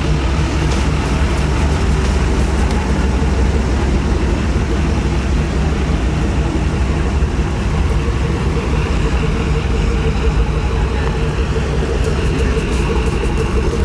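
Motor vehicle running with a steady low rumble that holds without a break.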